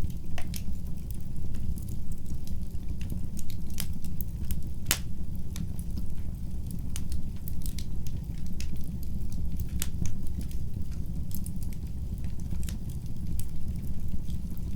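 Fire burning in a fireplace, crackling: irregular sharp pops and snaps over a steady low rumble of flame. A few pops stand out, the sharpest about five seconds in.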